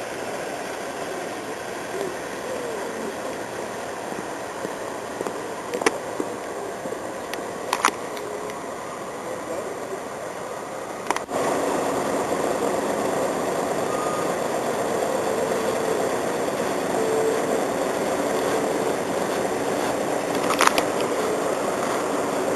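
A vehicle engine running steadily under outdoor noise, with a few sharp clicks. The sound steps up abruptly about halfway through.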